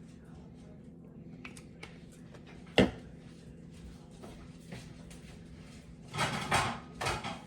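Kitchen handling sounds while a baking pan is greased with olive oil: a single sharp click or knock about three seconds in, then two short rushing noise bursts near the end, over a low steady hum.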